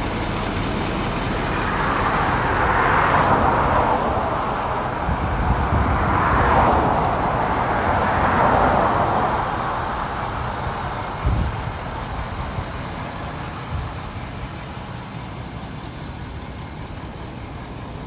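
Motor vehicle noise rising and falling in several swells, then fading over the last few seconds, with one short knock about eleven seconds in.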